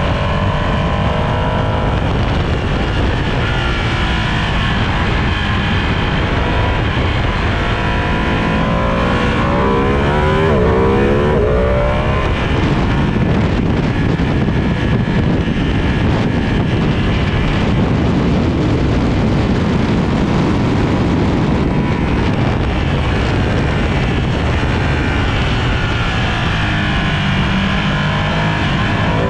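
Sport motorcycle engine running hard on a race circuit, over a steady noisy bed. Its pitch climbs under acceleration at the start, again about a third of the way in, and once more near the end.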